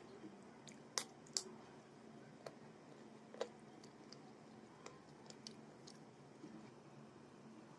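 Close-miked eating of rice and curry: faint chewing with sharp wet mouth clicks, the loudest two about a second in and another about three and a half seconds in, then smaller ticks.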